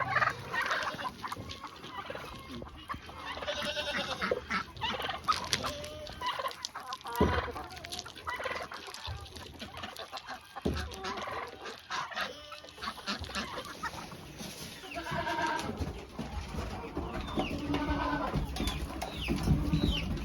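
Chickens clucking and calling in a flock, many short calls overlapping, with a couple of knocks about seven and eleven seconds in.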